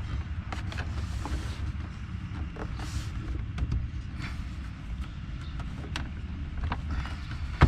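Plastic dashboard trim being pushed and worked into place: scattered small clicks and creaks, ending in a loud snap as the piece seats. A steady low rumble runs underneath.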